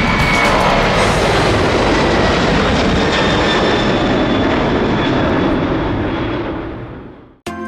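Loud, steady airplane engine noise that fades near the end as its higher sound drops away, then cuts off abruptly as music begins.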